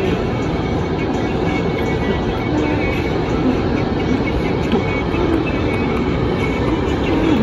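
MTR Tuen Ma line C-train running along the line: a steady rumble of wheels on rail and car noise.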